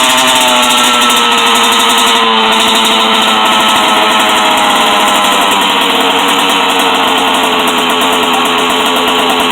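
Small dirt bike engine running, its pitch wavering up and down as the throttle moves.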